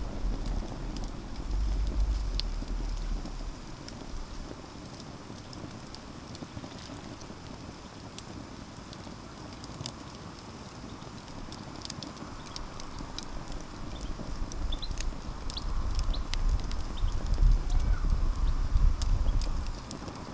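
Campfire crackling, with scattered sharp pops and snaps throughout. Under it a low rumble comes and goes, strong at the start and again over the last several seconds.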